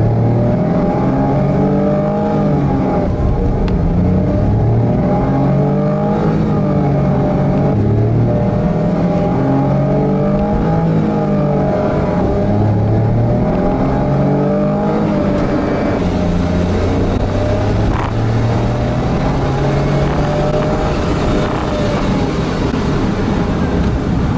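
Honda S660's turbocharged 658 cc three-cylinder engine revving, its pitch rising and falling over and over for the first fifteen seconds or so, then running at a steadier pitch.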